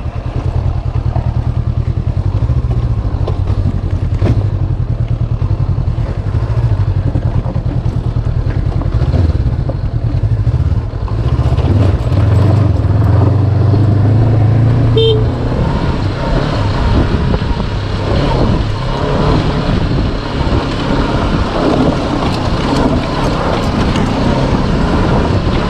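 Honda CB500X's parallel-twin engine running with a steady low hum. About fifteen seconds in there is a brief beep, and the hum eases into a rougher, more even running noise.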